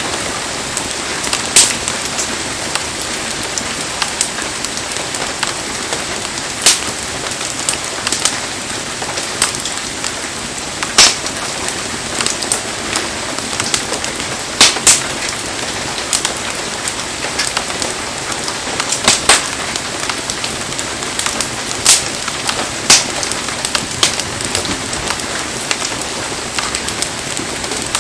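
Heavy rain falling with a steady hiss, broken every second or few by sharp single pops and cracks from a burning wood fire.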